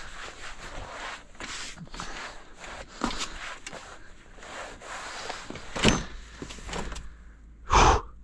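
Irregular crunching and scraping in snow as a sled and boots are worked through it, with two louder thumps about six and eight seconds in.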